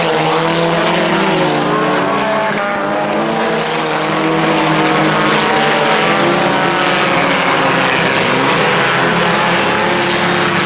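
IMCA Sport Compact race cars running at racing speed, several four-cylinder engines at high revs together, their pitches wavering up and down as the cars lap.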